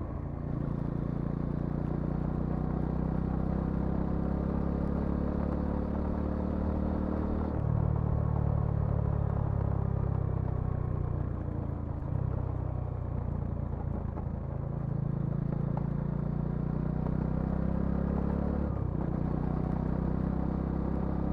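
Bajaj Dominar 400's single-cylinder engine and exhaust running steadily while riding, its note changing abruptly a few times along the way.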